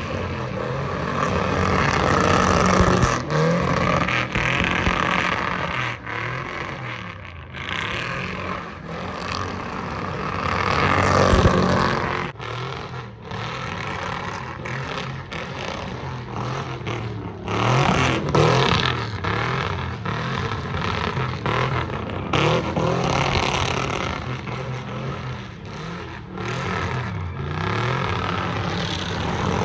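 Car engines revving hard, pitch repeatedly climbing and dropping over continuous road noise, as cars perform at a sideshow.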